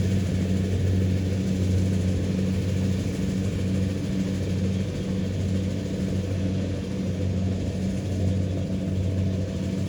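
Kubota DC-70 Pro rice combine harvester's diesel engine running at a steady speed, a low even hum with a mechanical rattle and whir over it.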